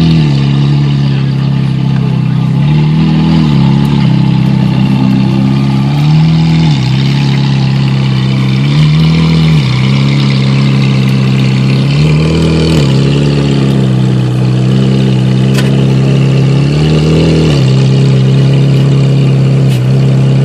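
Ferrari F430 Scuderia 16M's flat-plane V8 idling loudly through its exhaust, with about six gentle throttle blips that lift the engine speed briefly and let it fall back, as the car is crept into a parking spot.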